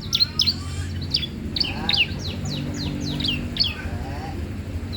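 Young cisem songbird singing non-stop, a quick run of short, sharp chirps several times a second over a steady low background hum.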